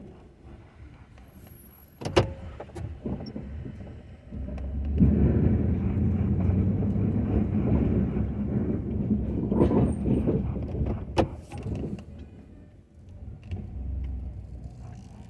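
Ford F-250 plow truck's engine running, getting much louder for several seconds in the middle as it works harder. There are sharp clunks about two seconds in and again about eleven seconds in.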